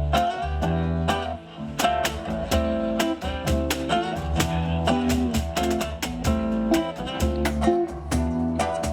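Live band playing an instrumental passage: strummed guitar over bass, with regular percussion ticks keeping the beat.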